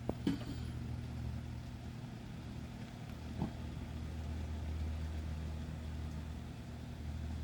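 Steady rain with a low rumble underneath that swells a little midway, and two faint clicks, one just after the start and one about three and a half seconds in.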